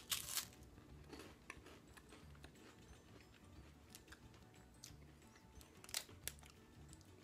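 A bite into a chocolate-covered wafer bar with one loud crisp crunch right at the start, then quiet chewing with a few faint crunches.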